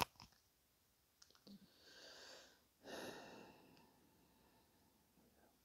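Near silence: a click right at the start, then a faint breath about three seconds in.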